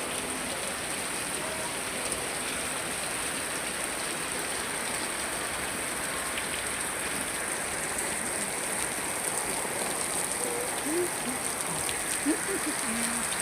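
Steady rain pouring down: an even, unbroken hiss with a constant high-pitched band running through it. A few faint short calls can be heard near the end.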